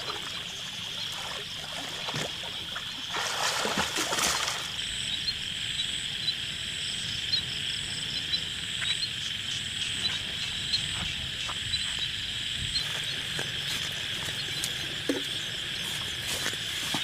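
Steady chorus of calling insects and frogs: a continuous high-pitched trill, joined through the middle by a still higher thin whine with quick pulses. A short burst of noise breaks in about three seconds in.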